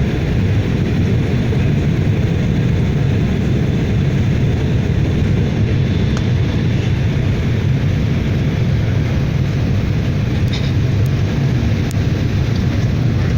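Aircraft in flight heard from inside the cabin: a loud, steady drone of engine and airflow noise that does not change.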